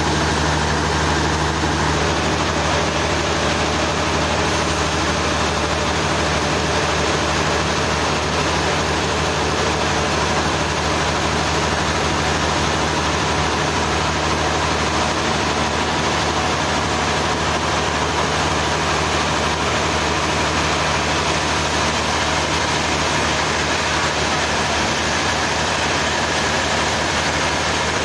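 Sawmill machinery running steadily: a low engine hum under constant mechanical noise, with no change in pace or load.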